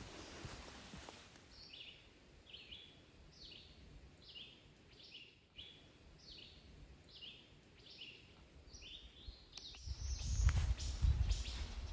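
A bird repeating a short, high, downward-sliding call, about a dozen times at an even pace over some eight seconds. Near the end, footsteps crunch on a dirt forest trail.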